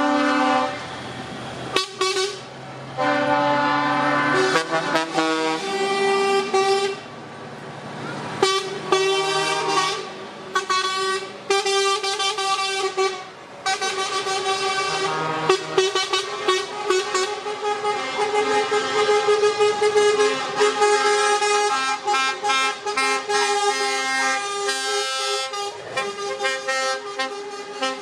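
Lorry air horns sounding over and over as a convoy of trucks passes, many blasts of different pitches overlapping into a near-continuous din, with truck engines running beneath.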